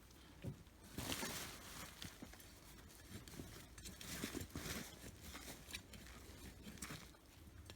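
Soil being dug and rummaged through while sweet potatoes are lifted, with irregular scraping, rustling and crumbling. The loudest scrapes come about a second in and again around four to five seconds in.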